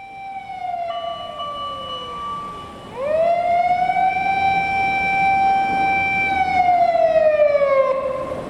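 Fire engine siren wailing: its pitch falls, climbs sharply again about three seconds in, holds steady, then falls near the end. A second, higher steady siren tone briefly sounds alongside it in the first few seconds.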